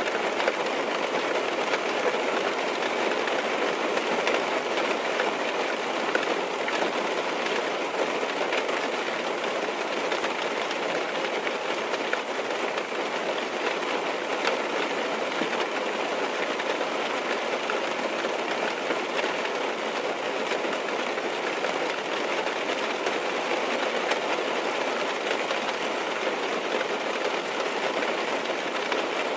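Steady rain falling on a car's roof and glass, heard from inside the cabin.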